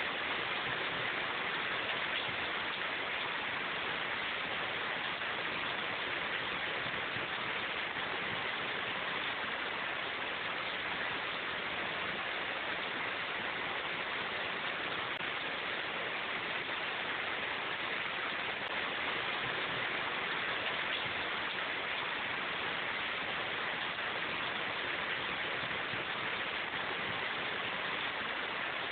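Steady rain in a forest: an even, unbroken hiss with no single drops or breaks standing out.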